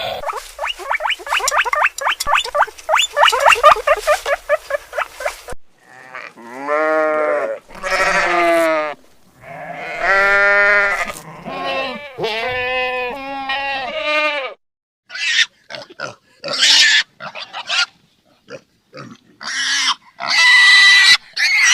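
A run of different animal calls, one after another. First come about five seconds of rapid, high, repeated calls. Then several long calls rise and fall in pitch, and short harsh cries follow in the last part.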